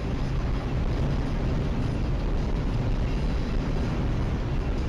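Steady engine and road noise of a vehicle on the move: a continuous low rumble under an even hiss, with no distinct events.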